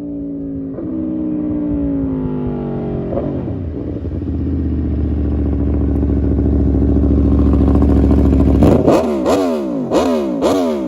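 Aprilia RSV4 1100 Factory superbike's 1078cc V4 engine running. The note first falls, then holds a steady deep drone. About two-thirds of the way in it is revved up and down in quick repeated blips, roughly two a second.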